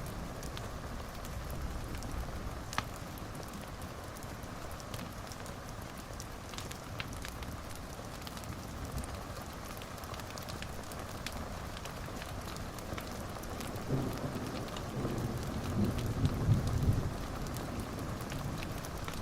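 Wood fire in a fireplace crackling: a steady hiss with scattered sharp pops. A louder low rumbling swell comes about three-quarters of the way through.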